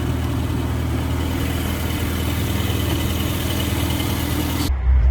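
Car engine idling steadily. About four and a half seconds in, an abrupt cut switches to a deeper, heavier low rumble.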